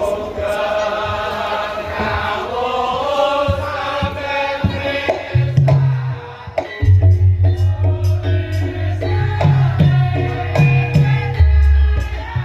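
Javanese gamelan music for a lengger dance: a sung vocal line at first, then heavy low drum and percussion strokes come in strongly about five to seven seconds in and carry on in a steady rhythm.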